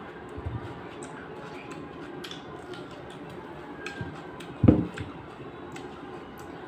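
Wet chewing of raw tomato, with small clicks and smacks throughout. A heavy thump about four and a half seconds in is the loudest sound.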